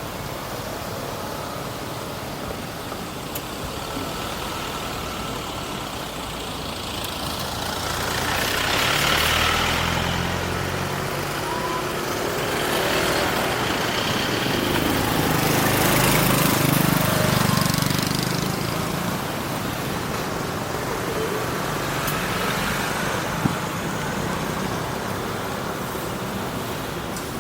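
Street traffic: motor vehicles running past, with two louder passes, one about a third of the way in and a longer one around the middle.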